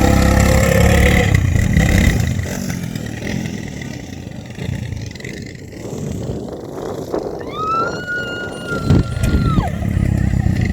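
Quad bike engines running, loudest in the first two seconds. Near the end, a long high tone rises, holds for about two seconds and falls away.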